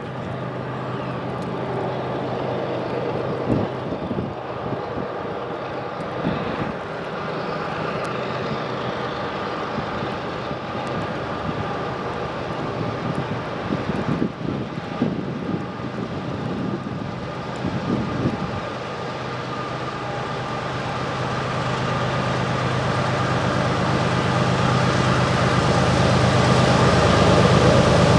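Diesel drone of an approaching CN GE ES44AC Gevo locomotive working under load up a grade, a steady multi-tone hum that grows steadily louder over the last ten seconds or so. Wind gusts buffet the microphone several times in the first two-thirds.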